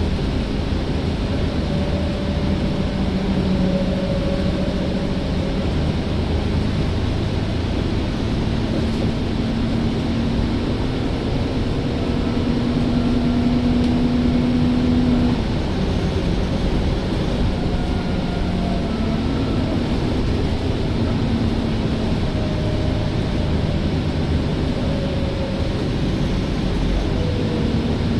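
Engine of an Alexander Dennis Enviro bus running steadily, its note drifting up and down a little and rising for a few seconds before dropping back about halfway through.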